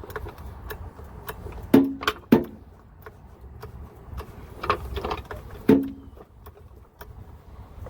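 Metal hand tools clanking as they are handled: about six sharp knocks, in two clusters, some ringing briefly.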